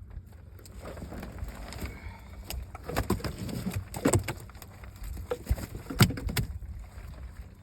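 Irregular knocks and thumps from a catch and net being handled in a small fishing boat, loudest in a flurry in the middle, over a steady low hum.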